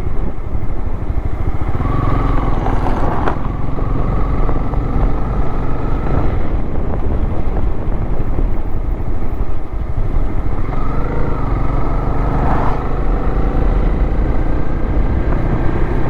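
Honda motorcycle engine running steadily while riding, its pitch shifting slightly with the throttle, over a constant low rumble.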